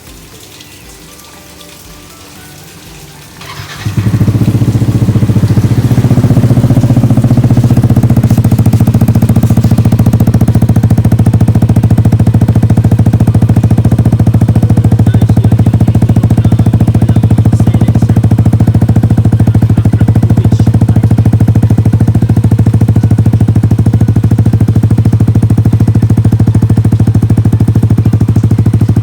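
Yamaha NMAX 155 scooter's single-cylinder four-stroke engine starting about three and a half seconds in, then idling loud and steady through an Akrapovic muffler with its silencer insert removed.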